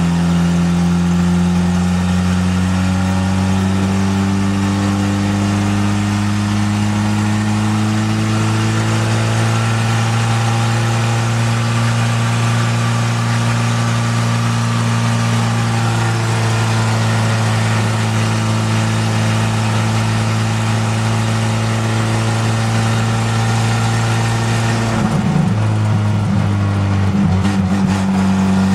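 Crosley station wagon's engine running steadily while the car cruises along the road, heard from inside the cab. Its pitch drifts slowly and wavers briefly near the end.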